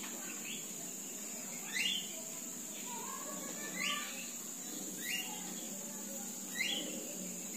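A bird chirping four times in short, separate chirps, over a steady high-pitched whine.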